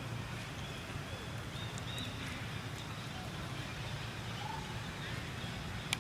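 Steady low outdoor background noise with a few faint, short, high chirping animal calls about one to two seconds in and again near the end.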